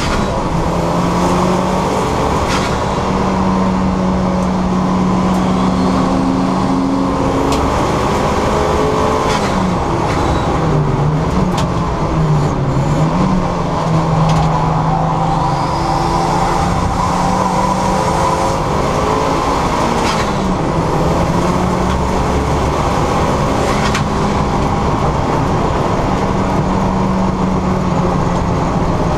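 Turbocharged 2.0 four-cylinder engine of a Ford Fiesta ST150 running hard on track, its revs holding high and then dropping and climbing again with gear changes and braking.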